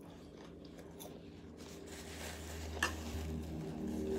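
Quiet, closed-mouth chewing of a lettuce-and-chicken salad, with soft wet mouth clicks and one sharper click a little under three seconds in. Toward the end a faint hummed "mm" builds.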